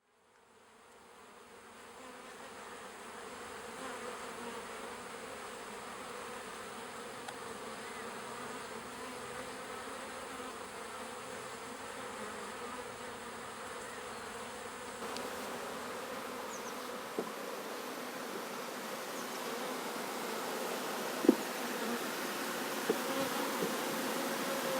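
A swarm of honeybees buzzing: a steady, even hum that fades in at the start and grows a little louder. A few short knocks come near the end, one sharper than the rest.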